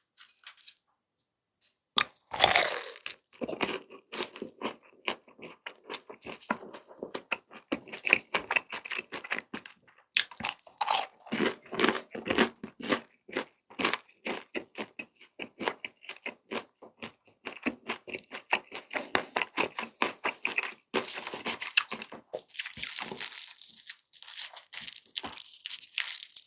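Close-miked chewing of a grilled cheese rice cake (cheese tteok): a loud first bite about two seconds in, then a long run of quick, short mouth clicks and smacks as it is chewed.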